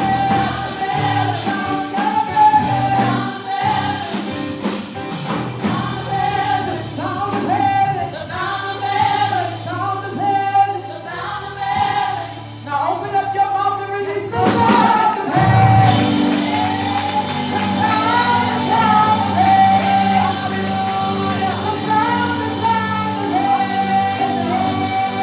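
Live gospel worship music: singers over a band with bass and drums. The band thins out about halfway through, then comes back in fuller.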